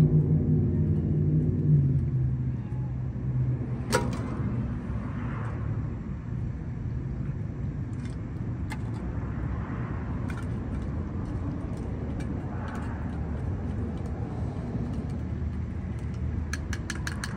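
A motor vehicle's engine hum fades over the first two seconds into a steady low rumble of traffic. There are a few sharp clicks, and a quick run of ticks near the end.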